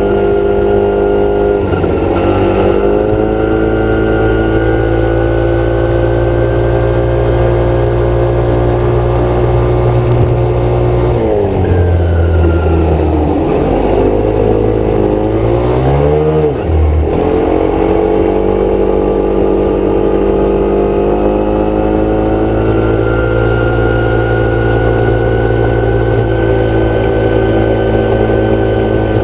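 An engine running steadily. Its pitch drops and climbs back a few seconds in, and again in a longer dip and rise about halfway through, as if it slows and speeds up again.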